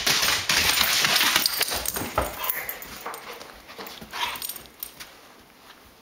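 A dog scuffling and moving about, with rustling and knocking that is loud over the first two seconds or so and then fades away.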